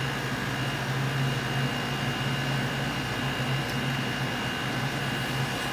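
Room air conditioner running steadily: a constant hum with a faint high whine.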